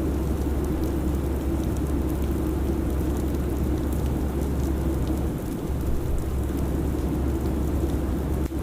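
Steady airliner cabin noise: a constant low rumble and hum of engines and airflow, with a faint scatter of light ticks over it. The low hum dips briefly about five seconds in.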